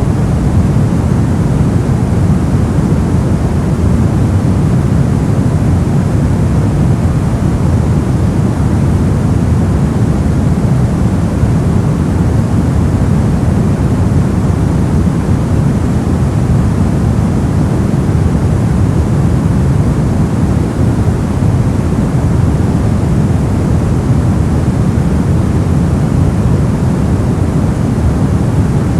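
Steady ambient noise track marketed as white noise, unchanging throughout, with most of its weight in the low end so it sounds deep and rumbling rather than hissy.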